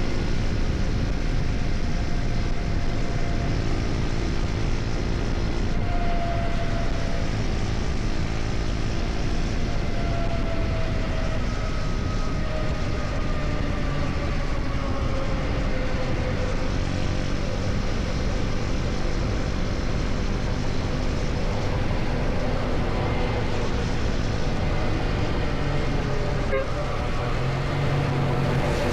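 KTM Duke 250's single-cylinder engine running at steady highway speed, mixed with a constant rush of wind and road noise. A faint whine slowly falls in pitch through the middle.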